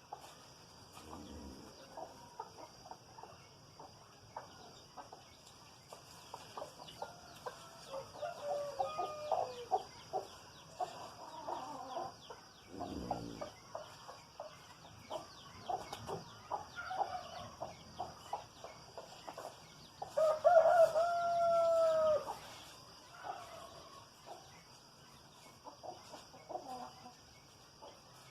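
Chickens clucking and calling, with a rooster crowing once loudly about two-thirds of the way through. A steady high-pitched drone runs underneath.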